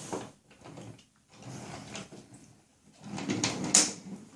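Toy pieces being handled: a few scattered plastic clatters and rustles, with a sharper knock about four seconds in.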